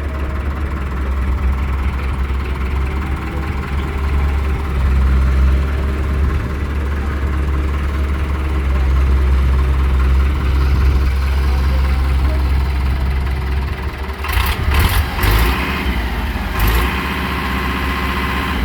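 Heavy diesel engine running steadily with a deep drone, with a few sharp knocks and clatters near the end.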